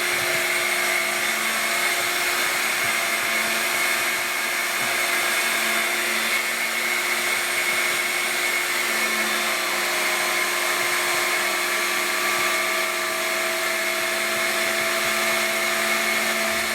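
Cordless stick vacuum with a beater brush running steadily during an edge-cleaning pass, a constant motor whine over the rush of suction.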